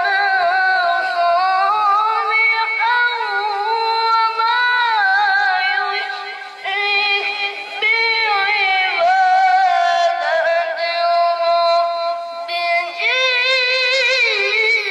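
A child's high voice reciting the Quran in melodic tilawah style, holding long ornamented notes that waver up and down, with a short break about six and a half seconds in and a climb to a higher pitch near the end.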